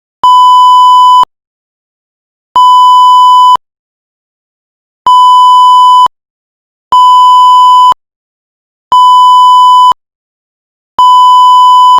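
Electronic beep tone of one steady pitch sounding six times, each beep about a second long, with uneven silent gaps of roughly one to one and a half seconds between them; the last beep is still sounding at the end.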